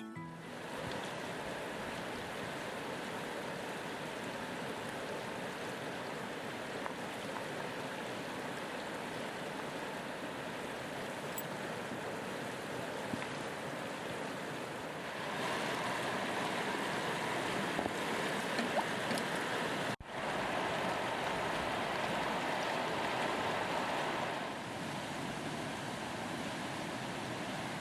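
Steady rushing of a river or stream flowing, a little louder for several seconds in the second half, with a brief break about two-thirds of the way through and a few faint small clicks.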